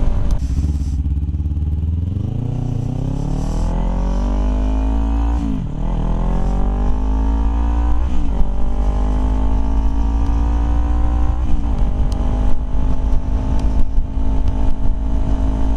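Kawasaki Ninja motorcycle engine pulling away and accelerating, its pitch climbing through the gears with three quick upshifts about six, eight and eleven and a half seconds in, then holding a steady cruise.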